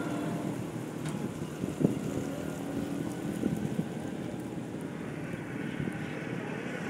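Wind blowing through a white shower tree and across the microphone, as a steady rushing noise over a faint low hum, with a couple of brief knocks.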